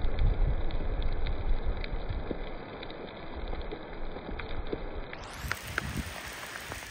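Hailstones pattering and ticking as they hit, over a steady hiss of falling precipitation, with wind buffeting the microphone as a low rumble that is heaviest near the start.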